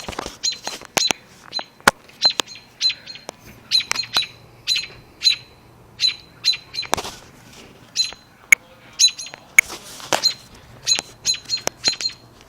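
Small birds chirping outside an open window: a run of short, sharp, high chirps about twice a second, with two brief bursts of hissing noise near the middle.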